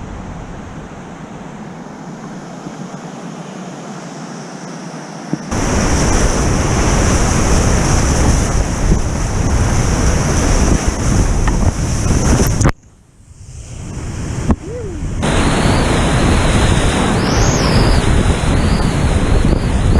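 Whitewater rapids rushing, a steady loud roar of river water. It grows much louder about five seconds in, cuts off suddenly about halfway through, then builds back to full loudness.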